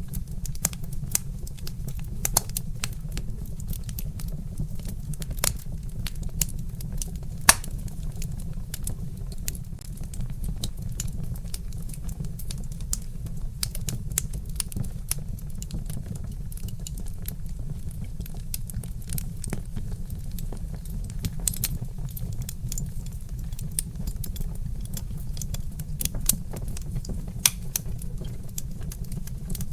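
Wood fire crackling: frequent sharp snaps and pops over a steady low rumble, with one louder pop about seven and a half seconds in.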